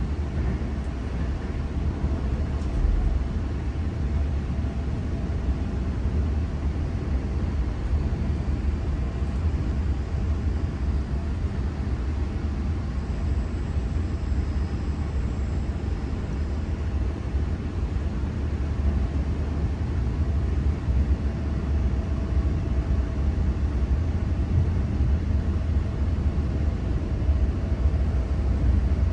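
Electric passenger train running: a steady low rumble with faint whining tones that come and go.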